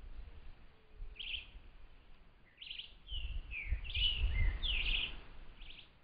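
Small birds calling: a short chirp about a second in, then a burst of overlapping chirps and short gliding whistles from about three to six seconds in, with a low rumble underneath.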